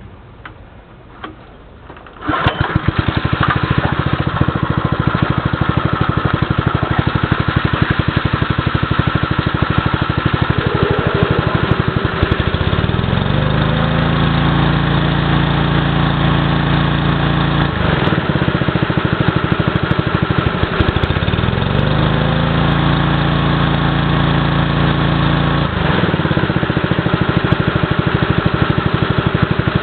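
Koshin SEM-40F engine pump's small petrol engine starting about two seconds in, after a couple of clicks, and then running steadily. Twice its speed rises, holds for several seconds and drops back to a lower speed.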